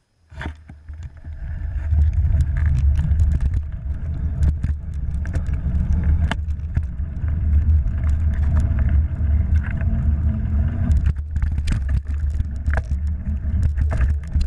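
Heavy, steady low rumble, with scattered clicks and knocks throughout, from riding a fat-tire electric bike: wind buffeting the microphone and road noise.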